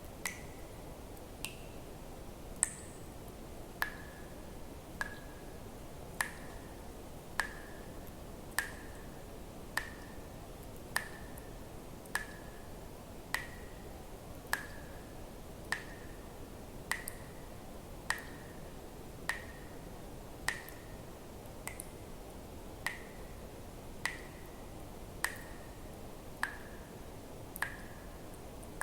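Water drops falling one at a time into water at an even pace, about one every second and a bit, each a sharp click with a short pitched plink, over a steady faint hiss.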